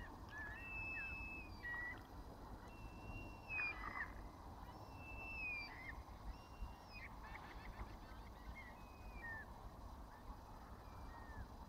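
Birds calling repeatedly, high held notes that each drop in pitch at the end, one every second or two, over a low steady rumble.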